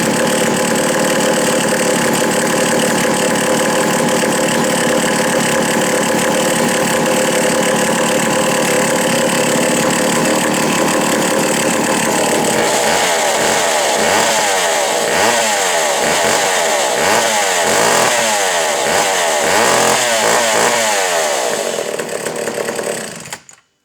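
Two-stroke McCulloch Super 797 chainsaw running at a steady high speed, then revving up and down over and over, about once a second, in the second half. It stops suddenly near the end.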